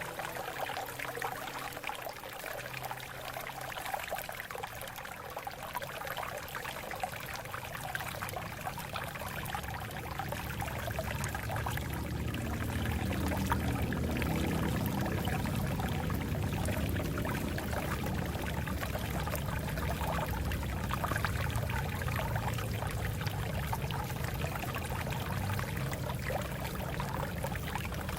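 Water flowing over rocks, a steady babble and splash that grows fuller and deeper from about halfway through.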